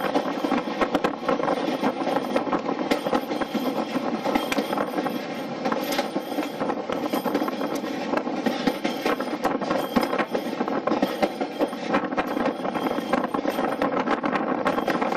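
Railway carriage running along the line, heard at an open window: a continuous rumble and rattle of wheels on track, with many quick clicks and knocks.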